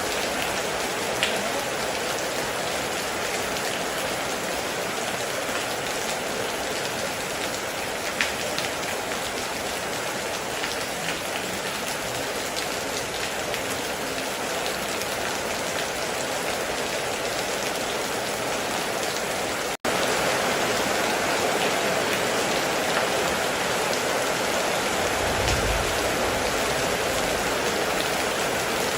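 Heavy rain falling steadily with occasional louder drips. It cuts out for an instant about two-thirds in and resumes slightly louder, and a short low rumble sounds near the end.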